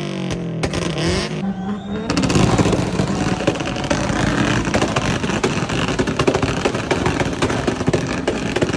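Car engine revving hard, its pitch swinging up and down, then from about two seconds in a dense crackling mix of engine noise and rapid exhaust pops.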